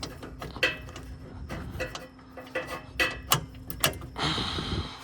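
Socket wrench work on a car's suspension bolts: irregular sharp metallic clicks and clinks of a ratchet and socket on metal, the loudest a few near the middle, with a short rushing noise near the end.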